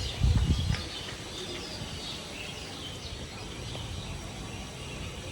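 Small birds chirping over a steady background hiss, with a brief low rumble near the start.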